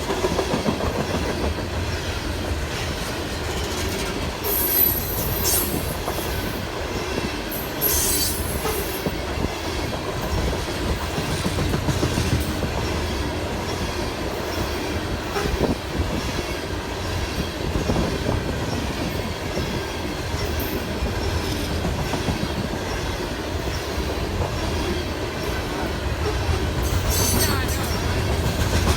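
Train cars rolling steadily past with a continuous rumble and rapid clickety-clack of wheels over rail joints. High, brief wheel squeals sound three times: about five seconds in, about eight seconds in, and near the end.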